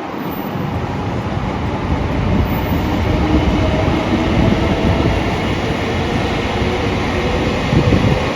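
A train passing close by: a loud, steady rumble of wheels on the rails. It builds over the first couple of seconds and cuts off abruptly at the end.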